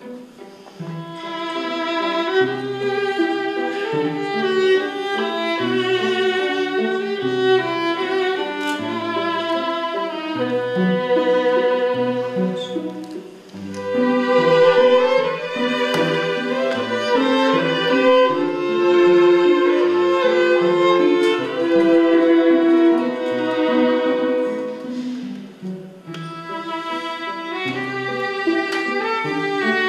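Bowed string music, violin with cello, playing a continuous melody of held and moving notes, easing off briefly about halfway through and again near the end.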